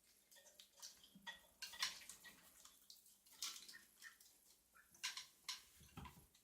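Faint, scattered crinkles and clicks from a filled chocolate bar being handled and eaten.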